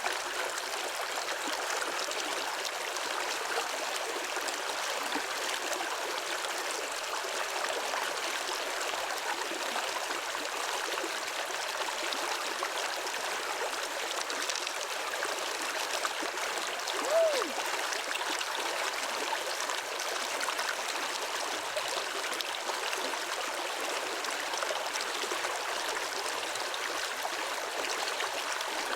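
Steady rush of flowing stream water, with one short squeaky tone rising and falling about two-thirds of the way through.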